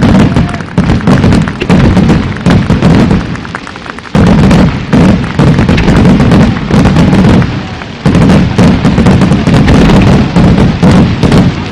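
A fireworks display going off in a dense, rapid barrage of loud bursts and crackle. It briefly eases twice, about four and about eight seconds in, before the volley picks up again.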